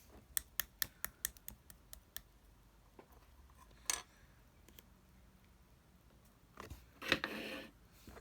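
A quick run of about ten sharp clicks or taps in the first two seconds, a single louder click near the middle, and a short breathy rush near the end.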